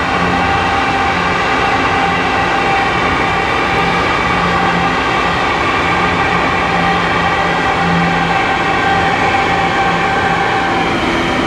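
Union Pacific diesel freight locomotive hauling a grain train over a steel trestle: steady engine and wheel rumble with a steady high whine over it.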